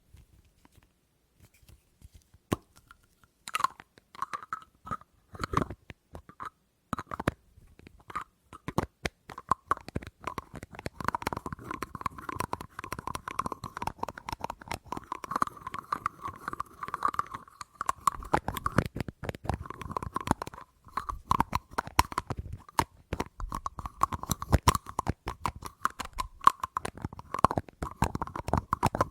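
Fingers tapping on a hard object that gives a ringing note under the taps. The first few seconds are silent, then the taps come a few at a time and grow into a fast, dense run of taps.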